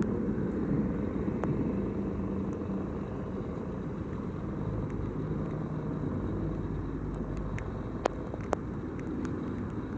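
Steady low rumble with a faint hum, and two sharp clicks about eight seconds in.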